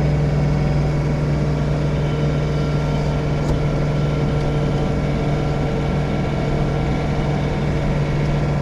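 A loud, steady machine hum held at one unchanging pitch, with a strong low tone and a stack of overtones above it.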